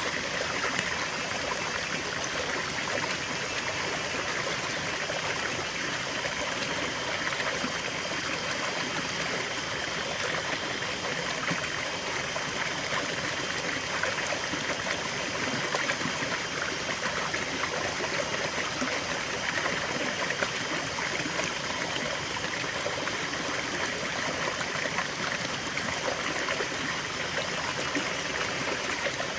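Small stream flowing and trickling steadily, a continuous babble of water with small splashes.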